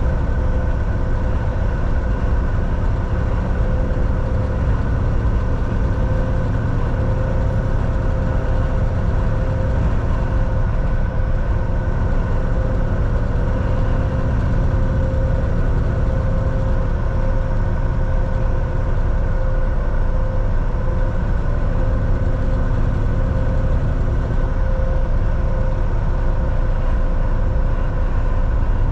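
Volvo VNL 760 semi-truck's diesel engine running steadily, heard from inside the cab as a low rumble with a steady hum over it.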